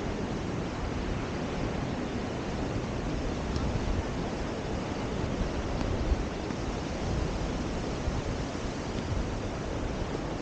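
Steady wash of ocean surf, with wind rumbling and buffeting on the microphone.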